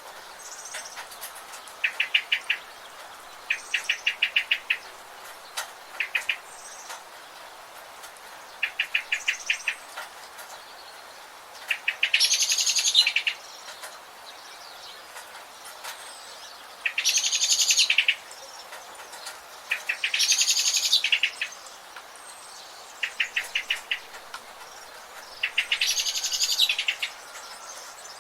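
Birds calling: short, rapid trills repeated every few seconds, and four louder, higher, fuller songs of about a second each, over a steady faint hiss.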